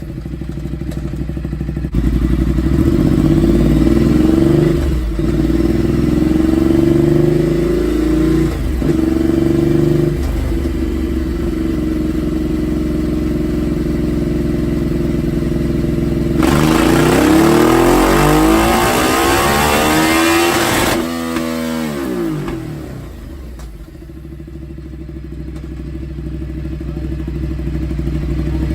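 Ducati Multistrada 1200's L-twin engine running on a dyno, open and loud through an SC-Project exhaust with the dB killer removed. About two-thirds of the way through it pulls hard for several seconds, then the revs fall away in a long falling glide and build again near the end.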